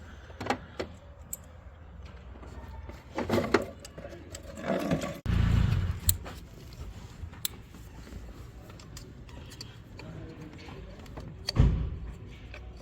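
Workshop handling noise: scattered metallic clicks and knocks of tools and parts being handled during reassembly. Two heavy low thumps, one about five seconds in lasting about a second and a shorter one near the end.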